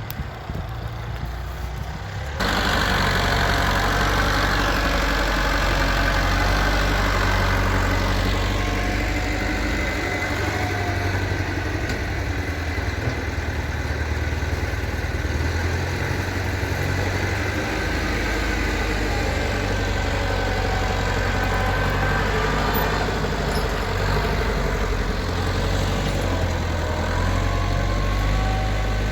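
Tractor engine running steadily with a low drone, getting abruptly louder about two seconds in.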